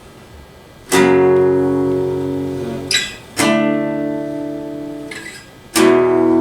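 Acoustic guitar strummed three times, one chord about every two and a half seconds, each left to ring and fade, with a faint scrape of the hand changing chords before the second and third.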